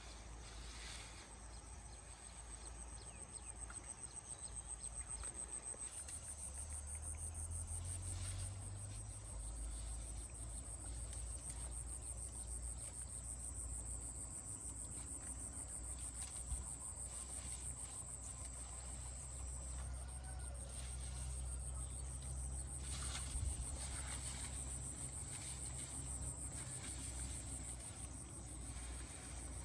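Insects, crickets or the like, trilling in a steady, high, unbroken chorus, with a low rumble underneath and a few brief rustles.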